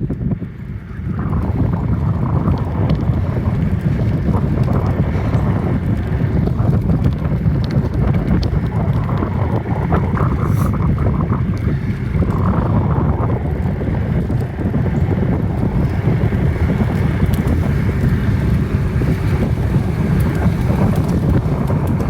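Wind buffeting a phone's microphone while riding a bicycle: a steady, loud low rumble, briefly easing about a second in.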